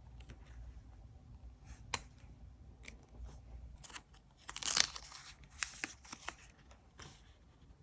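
Paper and sticker handling for diary decorating: scattered light taps and clicks, with one short rip about five seconds in as paper or a sticker is torn or peeled away.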